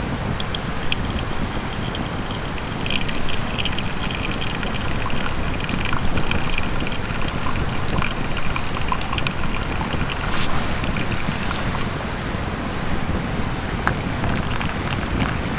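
Wood campfire crackling with many small irregular pops over a steady low rushing noise.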